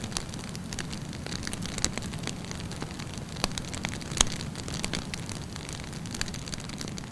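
Wood campfire burning, with a steady low rumble of flame and frequent sharp crackles and pops, the loudest pop a little after four seconds in.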